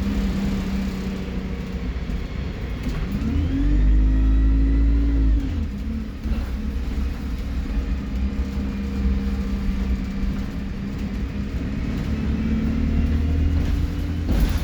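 Alexander Dennis Enviro 200 bus engine pulling under load with a turbo whistle, its pitch rising about three seconds in, dropping back about halfway through, then climbing again near the end.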